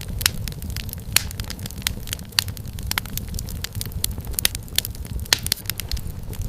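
Wood fire crackling in a fireplace: irregular sharp pops and snaps of varying loudness over a steady low rumble of the burning logs.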